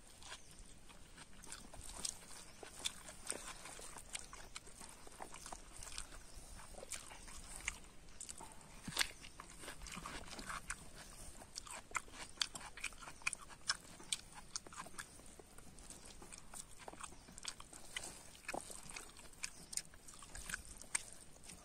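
A person eating rice and curry by hand, close to the microphone: chewing with many short, irregular wet mouth clicks and smacks, and fingers mixing rice on a dry palm-leaf plate.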